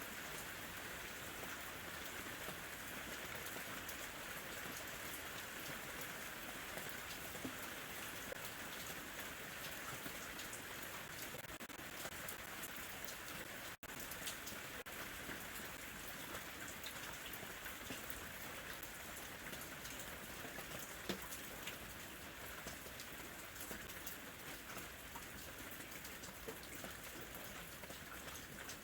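Steady summer rain falling, with individual drops ticking through an even hiss. About halfway through the sound cuts out for a split second, then carries on.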